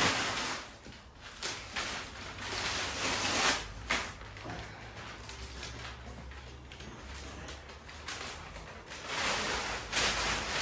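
Glue-covered masking tape and masking paper being peeled off and crumpled up: spells of tearing and rustling, with a quieter stretch in the middle.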